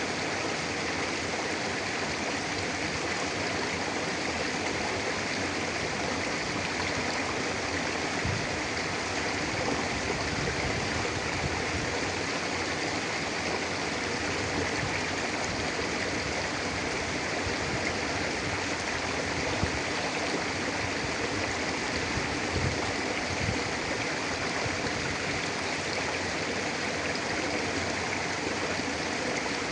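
Mountain river flowing steadily over rocks, a constant rushing of water with occasional small louder splashes.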